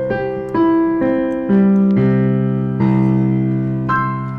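Background music: an electric piano playing a slow passage of single notes and chords, each note struck and left to fade.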